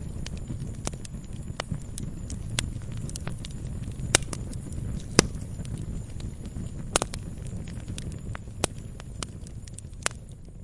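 Wood fire crackling: irregular sharp pops over a low, steady rumble. The loudest pops come about four and five seconds in and again around seven seconds.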